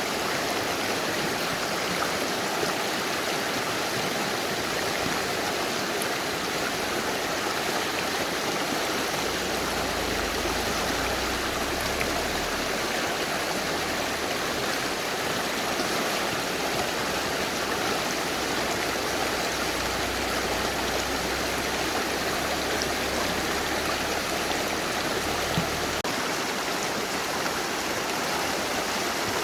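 Mountain river rushing steadily over rocks, a continuous broad water noise, with a slightly stronger low rumble through the middle.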